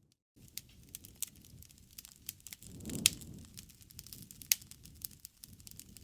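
Wood campfire crackling, with many small snaps and a few sharp pops, the loudest about three and four and a half seconds in, and a low rush of flame swelling around the three-second mark. The sound cuts out briefly at the very start.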